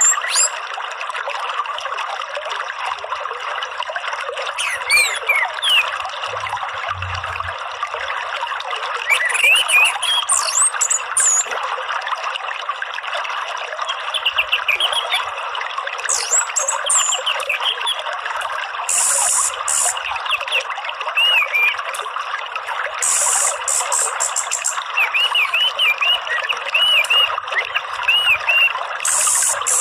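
Steady trickling, running water with small birds chirping and whistling over it in short curved calls, and a few high buzzing bursts partway through.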